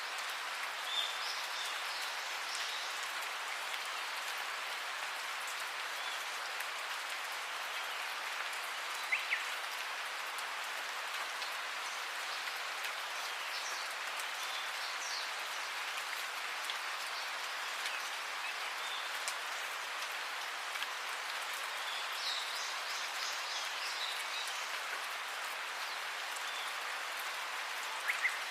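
Steady rain falling, an even hiss with no pause. A few short high chirps come through it now and then, and a sharp double tick sounds twice, about a third of the way in and near the end.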